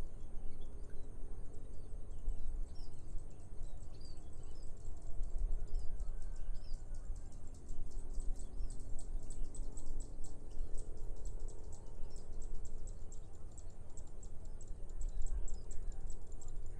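Rice-field morning ambience: small birds chirping here and there over a low wind rumble, with a rapid, very high ticking chatter that sets in about five seconds in and carries on.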